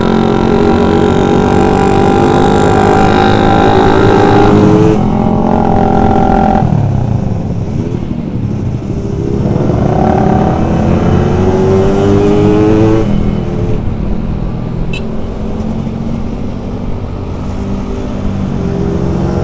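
Yamaha RX-King's two-stroke single-cylinder engine accelerating hard through the gears. The pitch climbs steadily, drops sharply at a gear change about five seconds in, climbs again, and drops once more near thirteen seconds.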